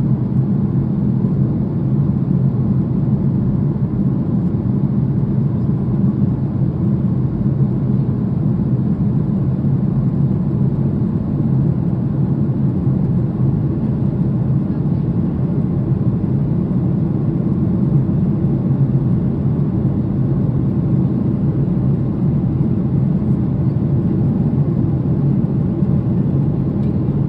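Steady cabin drone of a Ryanair Boeing 737 in flight, engine and airflow noise heard from inside the passenger cabin, low and unchanging.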